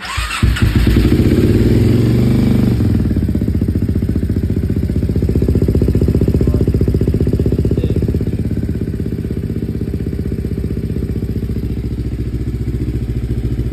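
Kawasaki Ninja 250 carbureted parallel-twin with a loud DST aftermarket exhaust catching as it starts, its revs rising and falling briefly about two seconds in, then settling into a steady, pulsing idle while it warms up.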